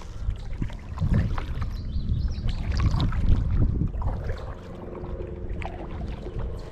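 Kayak paddling: the paddle blades dipping and pulling through the water with splashing and dripping and small knocks, strongest between about one and four seconds in.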